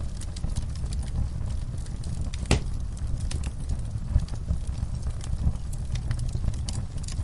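Wood fire burning in a fireplace: a steady low rumble of flames with irregular crackles and snaps, and one sharper pop about two and a half seconds in.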